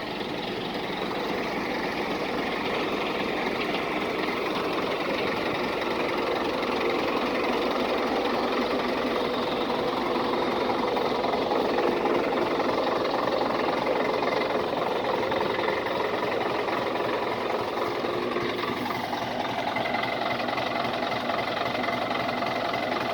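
Scania 113H's 11-litre six-cylinder diesel engine running steadily, its tone changing about nineteen seconds in.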